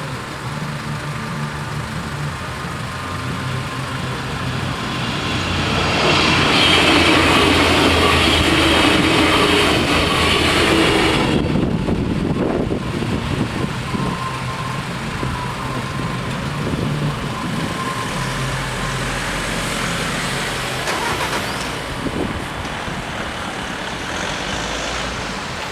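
A vehicle passes close by over a steady engine hum, loudest about six to eleven seconds in, its hiss cutting off suddenly.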